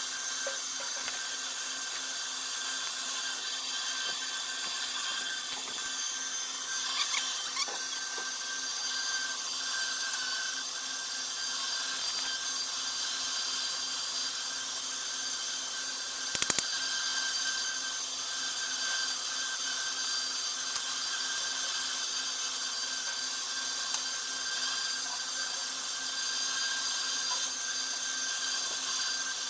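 A power tool running steadily with a high, even whine, with a quick burst of sharp clicks about halfway through and two single clicks later.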